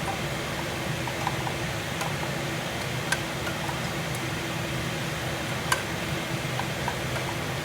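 Kitchen exhaust fan running steadily with a low hum and airy noise, with two sharp clicks, about three seconds in and near six seconds, and a few fainter ticks.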